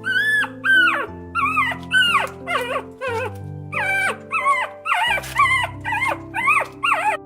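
An animal giving a rapid series of high, whining calls, about two a second, each rising briefly and then falling in pitch, over soft background music.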